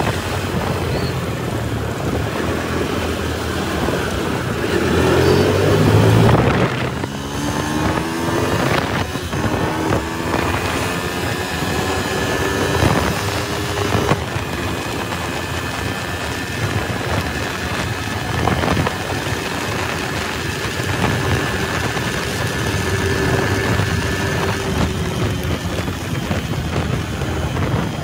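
Motorcycle engine running while riding in traffic, its pitch rising and falling with the throttle, with wind buffeting the microphone.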